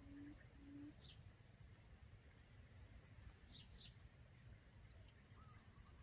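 Faint bird calls: two short low hoots near the start, then a few quick high chirps sweeping downward about three and a half seconds in.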